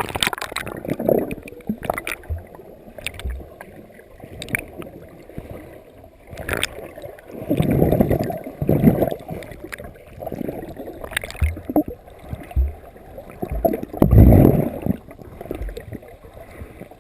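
Sea water splashing and sloshing against a GoPro Hero2 as a person swims strokes in the ocean. It comes in irregular surges, loudest about 8 and 14 seconds in, with a few short low thumps.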